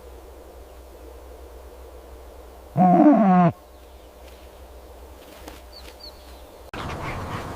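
A single loud animal call, under a second long, with a pitch that falls at the end, over a low steady hum. Two faint high chirps follow, and near the end a noisier background cuts in.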